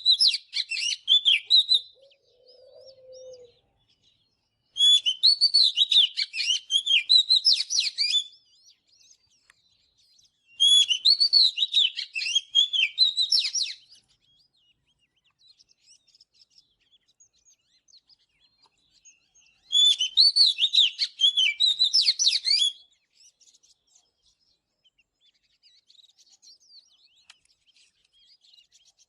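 Oriental magpie-robin singing: rich, fast phrases of varied whistled notes, delivered in four bouts of about three seconds each, with a few seconds of pause between them.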